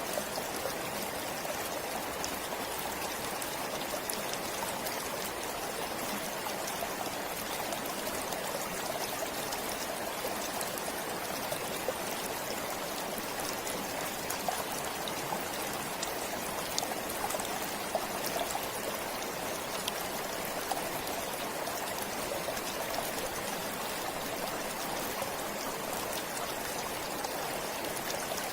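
Forest stream flowing steadily, an even rush of water with small splashes and trickles throughout.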